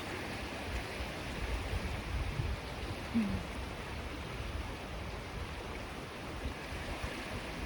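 Swollen river rushing steadily, in full flow after heavy rain.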